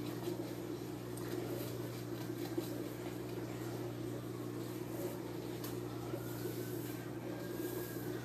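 A steady low mechanical hum, like a running room appliance, with a few faint light taps.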